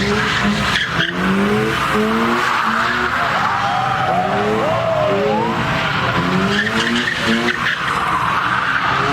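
A car engine revving up again and again while its tyres squeal and skid on the pavement, as in a street-takeover burnout. Several short squeals rise and fall over it.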